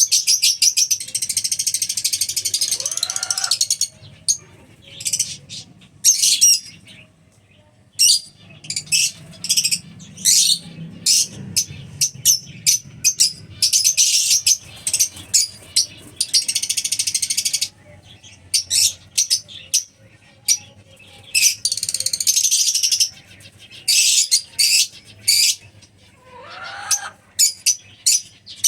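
Albino black-eye lovebirds chattering with shrill, rapid chirps, broken into bursts with a few stretches of dense, continuous chatter lasting several seconds.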